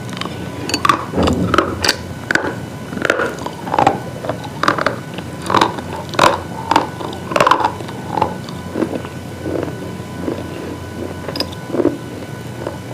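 Hard, brittle pieces being bitten and chewed close to the microphone: irregular sharp crunches, about two a second, loudest in the middle and softer near the end.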